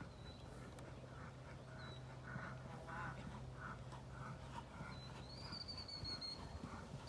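Faint birds calling over and over in short repeated notes, with a thin high whistle from about five seconds in and a steady low hum under the first part.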